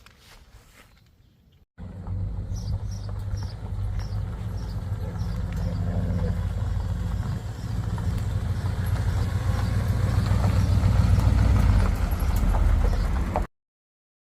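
1950 Chevrolet Deluxe's inline-six engine running steadily with a deep exhaust note, growing slightly louder over the stretch. It comes in abruptly about two seconds in after a faint stretch, and cuts off suddenly near the end.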